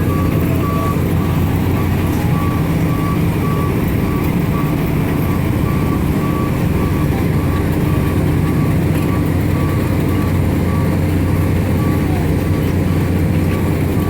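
Carnival train ride running with a steady, loud mechanical hum. A quick run of electronic beeps sounds in the first second and starts again near the end.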